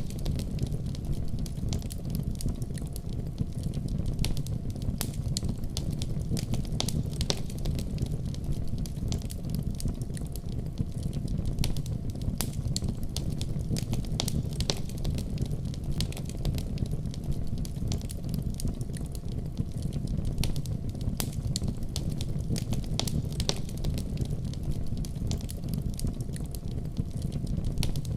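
Wood fire crackling in a fireplace: a dense, irregular run of small sharp pops and snaps over a steady low rumble.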